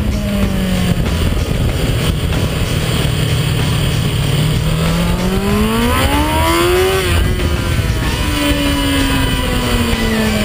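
Kawasaki ZX-6R inline-four engine under way on track: the revs fall, hold low for a few seconds, then climb from about five seconds in and drop off sharply near seven seconds before falling steadily again. Heavy wind rush on the bike-mounted microphone.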